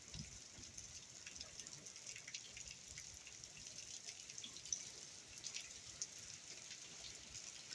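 Hurricane rain falling steadily: a soft hiss full of small drops and drips ticking, with a few louder single drops now and then.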